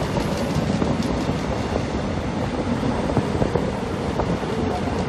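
Korail commuter electric train running past close by: a steady rumble of wheels on rail with a few light clicks scattered through it, and wind on the microphone.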